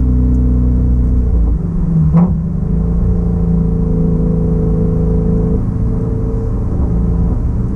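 Shelby Mustang GT350's 5.2-litre flat-plane-crank V8 running steadily at a slow cruise. The engine note changes about a second and a half in, with a brief sharp blip just after two seconds.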